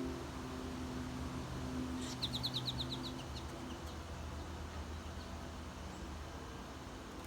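A small songbird gives a quick run of about eight high chirps a couple of seconds in, over a low steady background hum.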